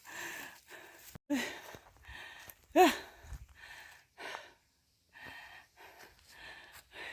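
A person breathing hard while walking, in short puffs every half second to a second, with a brief voiced exclamation about three seconds in.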